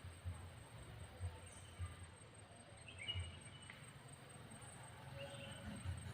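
Outdoor ambience: a steady high insect drone with a few short, faint bird chirps. Soft low thumps repeat about twice a second.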